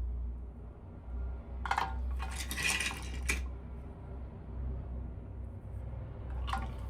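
Small hard plastic pieces clinking and rattling as they are handled: a brief clatter, then about a second of rattling, over a low rumble of handling noise.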